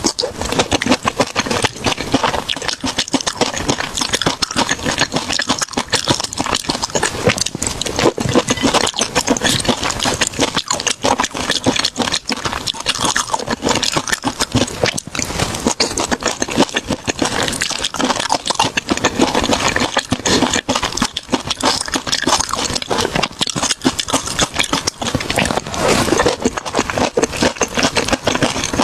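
Close-miked eating sounds: continuous, irregular crunching and chewing of food.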